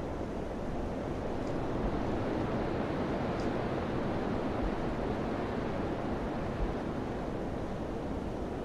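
Steady rushing of wind, a dense low noise that swells slightly and eases again.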